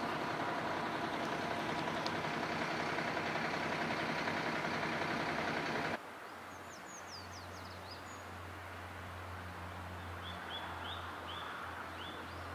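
Outdoor ambience: a steady rushing noise drops away suddenly about halfway through, leaving a low hum under a few songbird calls, first a quick run of high chirps, then a series of short repeated notes near the end.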